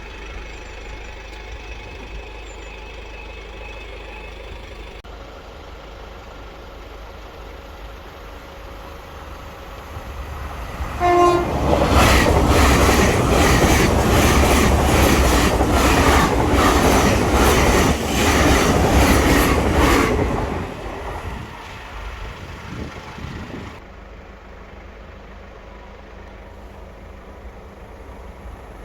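A train passing over a level crossing: a short horn note sounds, then about eight seconds of loud wheel clatter with regular beats as the wheels cross rail joints, fading away as the train goes by.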